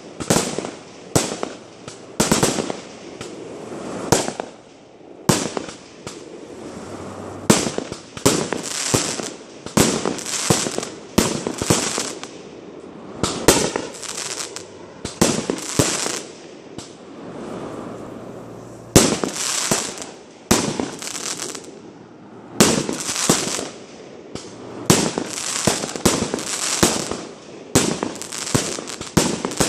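Fireworks display: aerial shells bursting in a rapid, irregular string of bangs, often several a second, with no letup.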